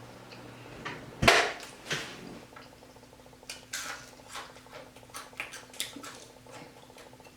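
Eating crispy fried croaker fish: a knock about a second in, then scattered small crunchy clicks of biting and chewing.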